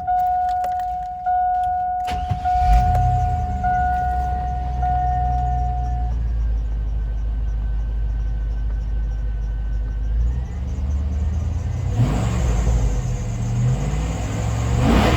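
A 2001 Denali's 6.0 L LQ4 V8 cranks and starts about two seconds in, then settles into a steady idle over a repeating dashboard warning chime, which stops a few seconds later. Near the end the engine is revved up.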